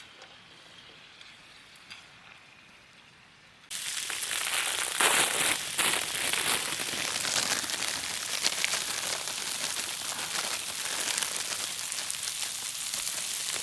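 Food goes into a hot pan about four seconds in and at once starts sizzling loudly with dense crackling, which goes on steadily. Before that there is only faint background sound.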